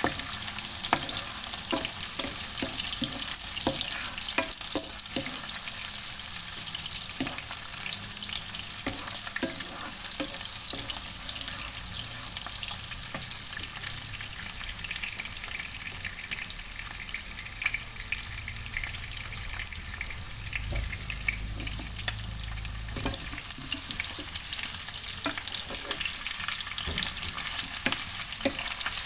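Chicken feet frying in hot oil: a steady crackling sizzle with frequent sharp pops.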